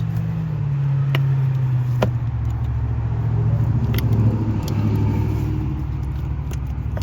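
A steady low mechanical hum runs throughout, dipping slightly in pitch about half a second in. Over it come three sharp clicks about a second apart and again near the middle as the coil packs' small plastic electrical connectors are unclipped.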